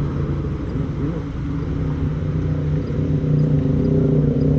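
A motor engine running steadily with a low, even hum, growing louder about three and a half seconds in.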